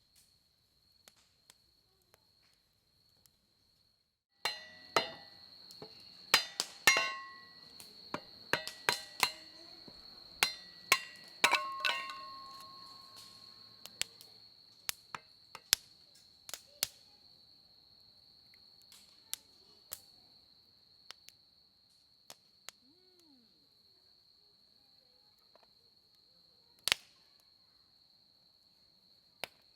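Firewood burning in a campfire, cracking and popping: about four seconds in a flurry of sharp snaps starts, dense for some ten seconds, then thinning to occasional single pops. Under it runs the steady high trill of insects, crickets by the tags around it.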